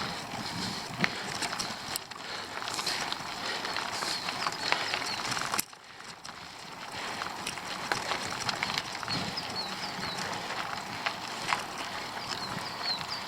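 Bicycle climbing a gravel forest road: tyres crunching over loose stones with scattered clicks and ticks from the bike, and short high chirps throughout. The sound drops out sharply once, about five and a half seconds in, then resumes.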